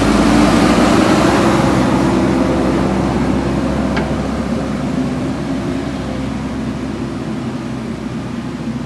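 JCB backhoe loader's diesel engine running steadily, with a faint click about four seconds in; the sound slowly gets a little quieter toward the end.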